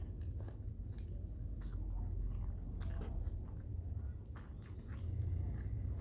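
A person chewing and biting a mouthful of chicken and rice, with irregular small clicks of the mouth and food. A steady low rumble runs underneath.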